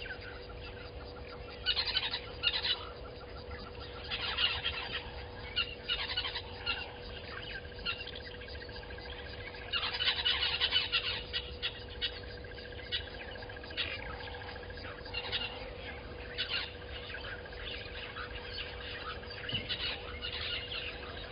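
Wild birds calling in many short chirps and bursts throughout, with a thicker spell of calls about halfway through, over a steady low hum.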